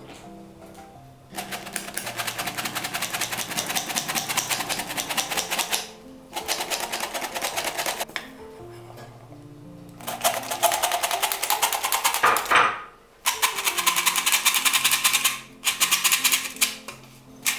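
Bursts of fast, even clicking from food preparation, each lasting a few seconds with short breaks between them, over soft background music.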